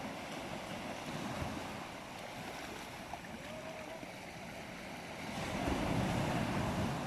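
Sea waves washing up on a beach, with wind on the microphone; a wave surges in louder near the end.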